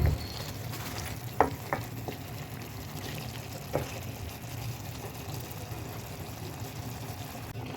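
Chicken pieces frying in oil with onion and spices, a steady sizzle. A dull thump right at the start, then a few light knocks of a utensil against the pan, two about a second and a half in and one near four seconds.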